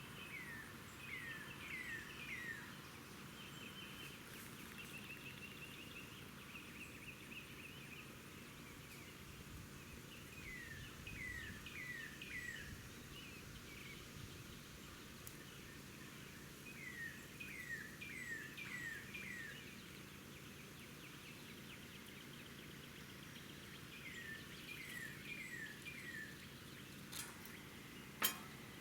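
Faint songbird calls outdoors: phrases of four or five quick down-slurred notes, repeated four times several seconds apart, with a short trill after the first. A single sharp click near the end.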